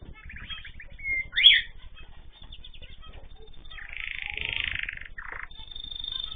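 Ornamental cage birds calling: a quick run of chirps, a short whistle, then a loud sharp call about a second and a half in, and a longer buzzy call near the two-thirds mark.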